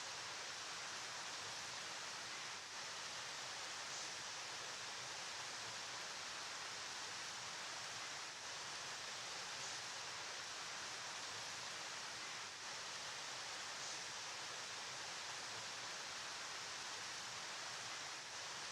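River water flowing: a steady, unbroken hissing rush.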